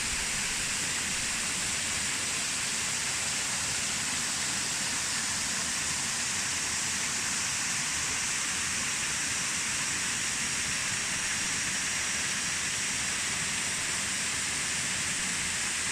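Waterfall pouring into its pool: a steady, unbroken rush of falling and splashing water.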